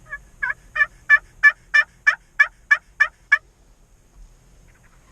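A series of about eleven turkey yelps, evenly spaced at about three a second, growing louder over the first few notes and then holding steady before stopping.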